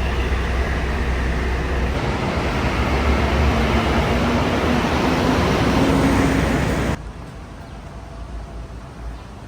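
Motor vehicle engine and road noise with a low rumble and an engine note that rises slowly, as when pulling away. About seven seconds in it cuts off abruptly to a much quieter background.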